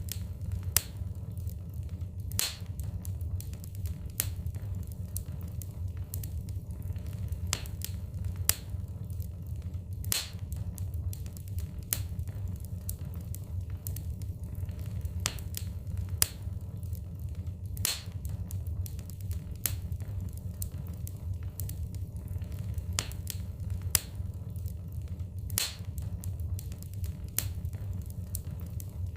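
Wood fire burning in a fireplace: a steady low rumble of flames with irregular sharp crackles and pops from the burning logs, a few of them louder.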